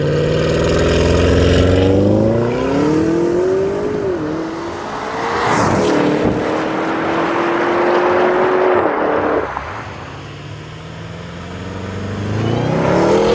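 2024 Porsche Cayenne Turbo GT's twin-turbo 3.9-litre V8 under hard acceleration: the engine note climbs, drops back at an upshift about four seconds in, holds steady, drops again about nine seconds in, and climbs again near the end.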